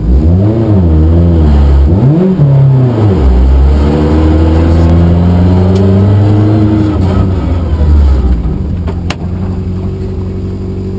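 Suzuki Swift rally car engine, loud: revs blipped up and down for a couple of seconds, then the engine pulls with revs climbing steadily under hard acceleration. About seven to eight seconds in it eases off to lower, steady running, with a single sharp click near the end.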